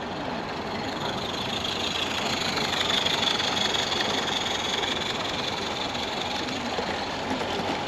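A train running by, a steady mechanical noise that swells to a peak about three seconds in and then slowly eases off.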